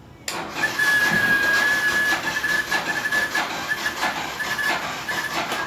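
Yamaha Fazer 150's electric fuel pump running on ignition with a steady high whine that breaks up into a rapid stuttering chatter after about two seconds. The bike has no power: the battery is too weak, which the mechanic puts down to the battery or a faulty rectifier not charging it.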